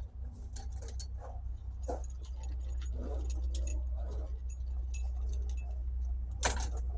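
Metal hand tools clinking and jangling, many light irregular clinks as sockets and a ratchet extension are handled, over a steady low rumble.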